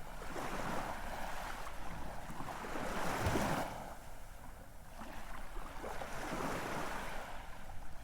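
Ocean waves washing in and drawing back, a steady rush that swells about three seconds in and then eases off before building again.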